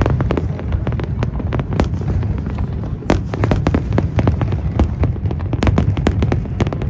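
Fireworks display bursting: a rapid, irregular barrage of sharp bangs and crackles over a continuous low rumble of booms.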